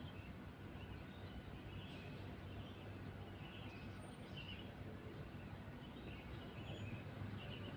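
Small birds chirping faintly in short, scattered calls over a steady low background rumble, with a couple of brief thin high whistles.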